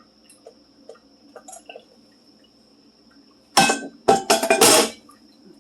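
Dishes and cutlery clinking faintly, then a loud clatter of dishes being handled a little over three and a half seconds in.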